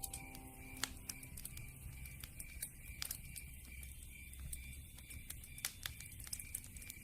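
Campfire crackling: irregular sharp pops and snaps over a low rumble, with a steady, rapidly pulsing high chirp underneath.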